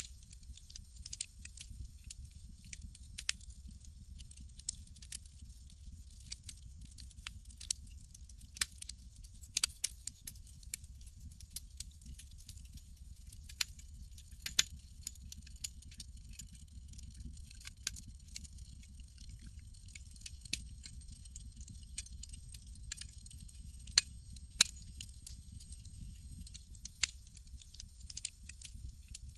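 Campfire crackling: irregular sharp pops and snaps, a few of them louder, over a low steady rumble.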